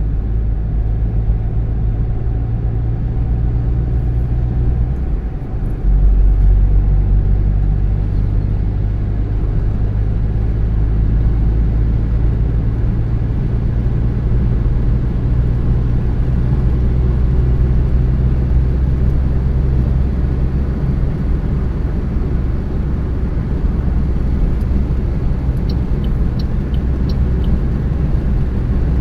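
Car driving along a road: a steady low rumble of engine and road noise that dips briefly about five seconds in, then comes back louder. A few faint high ticks sound near the end.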